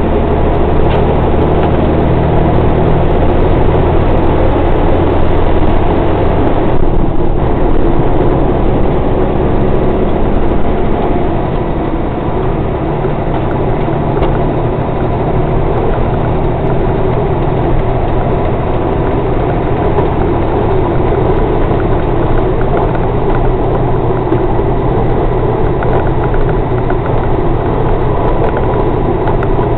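Scania torpedo truck's diesel engine running steadily while driving on the motorway. The engine note changes briefly about seven seconds in.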